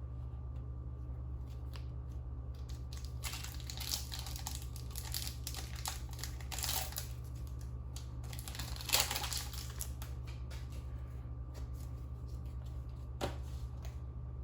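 Trading card booster packs and cards being handled, with intermittent rustling and crinkling and one sharp click near the end, over a steady low electrical hum.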